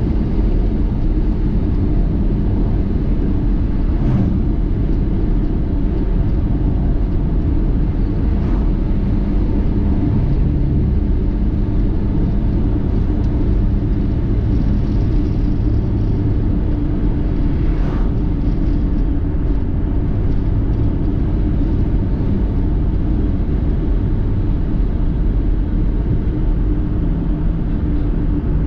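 Steady rumble of a car on the move: engine and road noise, with a few faint ticks.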